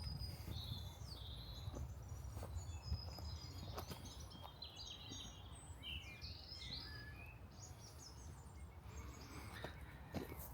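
Small birds chirping and trilling, many short overlapping calls, over a steady low rumble, with a few soft ticks.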